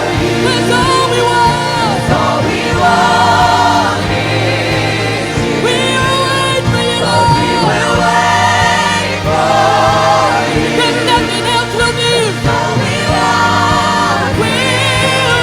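Gospel worship music: voices singing a slow song with long, wavering held notes over steady instrumental accompaniment.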